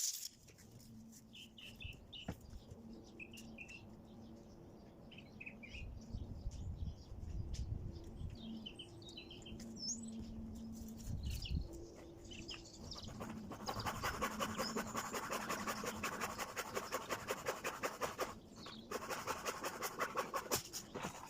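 Garden birds chirping, with a low steady hum coming and going. From about halfway through, a fast, dense rattling chatter takes over, breaking off briefly near the end.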